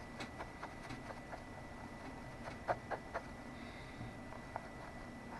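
Two-part epoxy being stirred on a mixing surface with a small tool: a run of faint light taps and scrapes, with three sharper ticks about halfway through.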